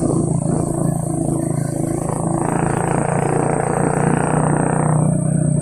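Diesel truck engine running with a steady low drone, a rushing noise swelling in for about two and a half seconds midway.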